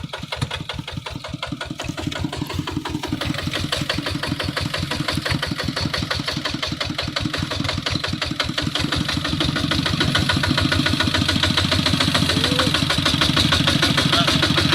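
Kubota RT155 single-cylinder horizontal diesel engine on a hand tractor, running with a rapid, even firing beat and getting louder partway through.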